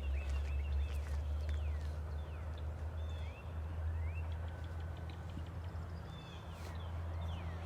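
Small birds chirping again and again, short calls sliding up or down in pitch, over a steady low hum.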